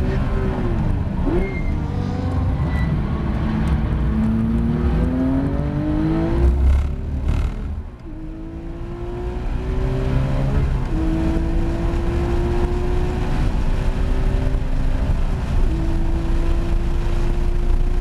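Porsche 911 GT3 RS flat-six engine heard from inside the cabin at racing pace. At first its pitch wobbles under braking and cornering, then it climbs, with a brief dip about 8 seconds in. After that it pulls at full throttle, its note rising steadily and dropping back at upshifts about 11 and 15 seconds in.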